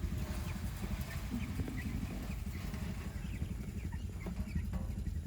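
Chicken feed being poured into a feeder, making a steady rattling clatter, with Cornish Cross chicks peeping faintly throughout.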